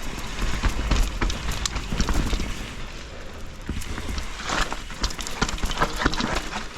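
Enduro mountain bike rolling fast down a rough, wet trail: tyres hissing on mud with rapid knocks and rattles as it runs over roots and rocks, and low wind rumble on the microphone.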